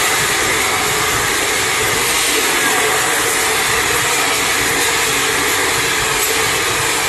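Express train passenger coaches passing close by at speed: a loud, steady rush of wheels on the rails.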